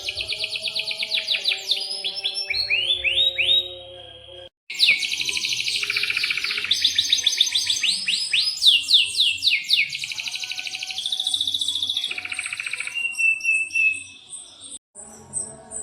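Domestic canary singing in rapid trills and long rolling phrases of fast downward-sweeping notes. The song breaks off for a moment about four and a half seconds in, then resumes.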